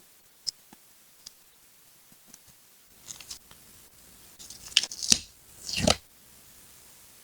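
Scissors cutting paper and paper being handled: a few light taps at first, then a run of crisp snips and rustling in the second half.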